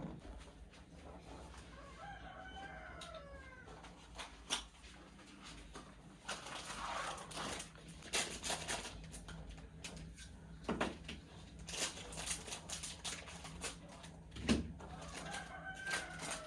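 A rooster crowing about two seconds in and again near the end, with scattered knocks and clatters in between.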